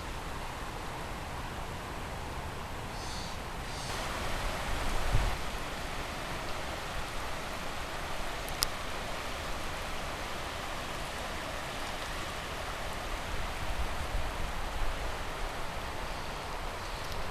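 Flooded Calapooia River rushing in a steady hiss, a little louder from about four seconds in.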